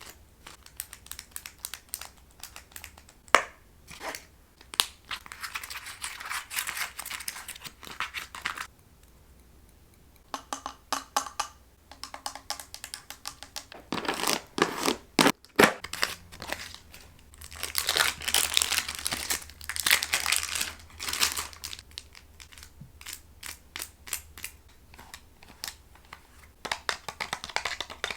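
A quick succession of close-up ASMR trigger sounds, with object handling, crinkling and sharp clicks, one trigger after another every few seconds.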